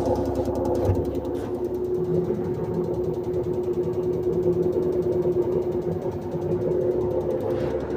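An engine idling steadily with a rapid, even knocking and rattling. The owner does not know what is causing it.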